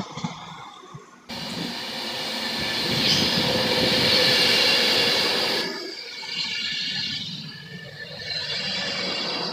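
Class 390 Pendolino electric express train passing through the station at speed: a loud rush of wheels on rail and air that comes in suddenly about a second in, is loudest in the middle, and drops to a lower rush near the end.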